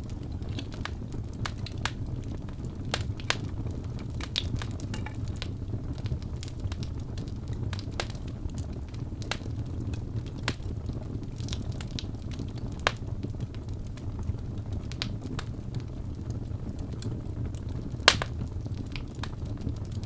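Wood fire burning in a fireplace: a steady low rumble of flames with irregular sharp crackles and pops from the burning wood, one louder pop near the end.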